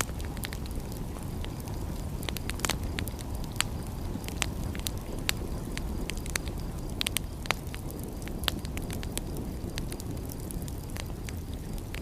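Wood fire crackling, with irregular sharp pops and snaps over a steady low rushing noise.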